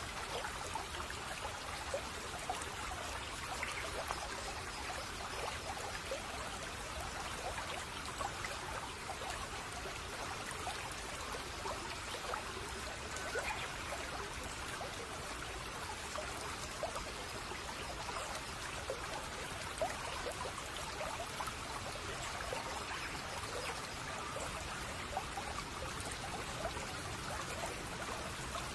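Shallow brook babbling steadily, water trickling and gurgling over stones.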